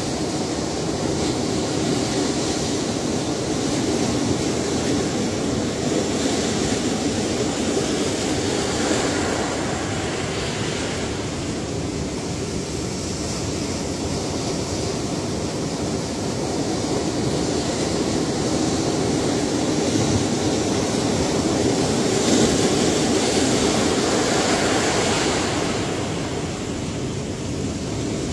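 Ocean surf: a continuous wash of breaking waves that swells and eases every few seconds, with the biggest surge a little before the end.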